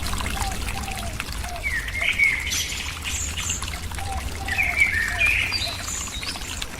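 Birds chirping in two short bouts, about two seconds in and again around five seconds, with fainter higher and lower notes between, over a steady low rumble.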